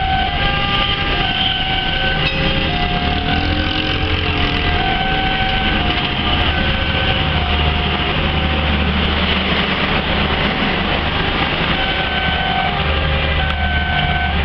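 Turangga train with its CC 204 diesel-electric locomotive at the station: a steady low rumble of the running locomotive and rolling train, with a string of short held tones alternating between two or three pitches repeating above it.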